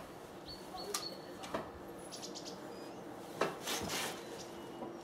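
Small birds chirping in short, high calls, with a brief hiss about three and a half seconds in.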